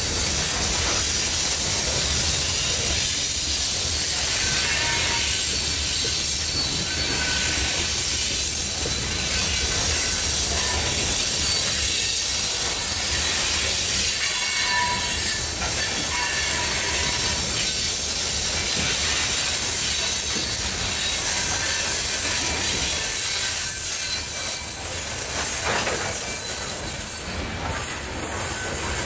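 Loaded coal hopper cars of a long freight train rolling past: a steady rumble and hiss of steel wheels on rail, with a faint knock every couple of seconds as the car trucks go by. Short faint wheel squeals come and go.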